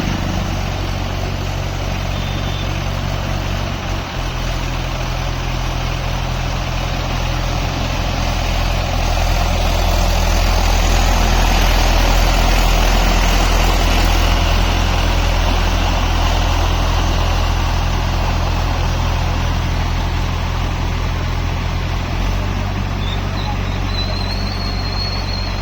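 Small diesel tractor engine running steadily under load while puddling a flooded paddy. It grows louder through the middle, and its note shifts about four seconds in and again near the end.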